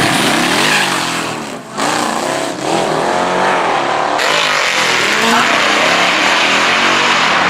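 Sport compact drag cars' engines revving hard, the pitch climbing and falling again and again, with two brief drops in sound in the first three seconds.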